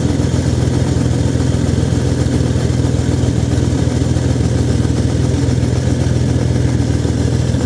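1991 Mercury Cougar engine idling steadily just after a cold start, its head gasket failing so that exhaust gases blow back into the cooling system.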